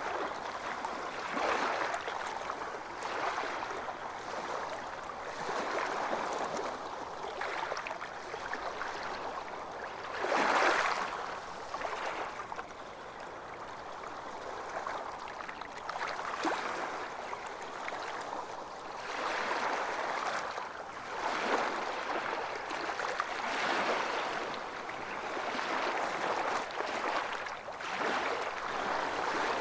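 Ocean waves washing onto a beach, a continuous surf hiss that swells and ebbs every few seconds, with one louder wave breaking about ten seconds in.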